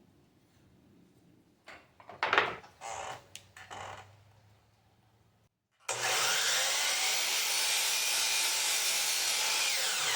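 A few knocks and scrapes of the wooden root being handled, then a power saw cutting steadily through the wood burl root for the last four seconds, its pitch sagging slightly near the end.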